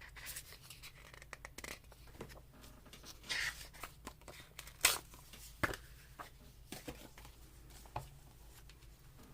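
Paper and craft supplies being handled: intermittent rustling and crinkling with a few light taps and clicks, the loudest rustles about three and five seconds in.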